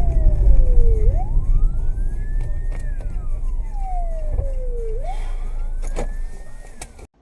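Emergency vehicle siren in a slow wail, rising and falling about every four seconds, over a heavy low rumble of vehicle noise. The sound cuts off abruptly near the end.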